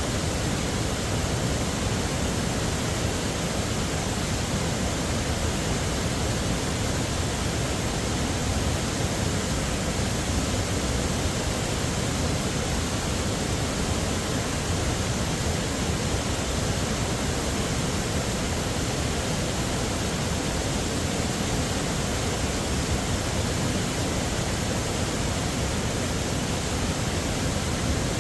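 Heavy waterfall: falling water pouring in an even, unchanging rush, with no other sound standing out.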